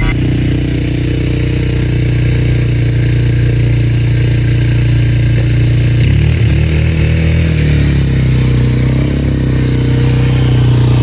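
Four-wheeler (ATV) engine running steadily, its note wobbling and changing pitch for a couple of seconds about six seconds in as the throttle shifts.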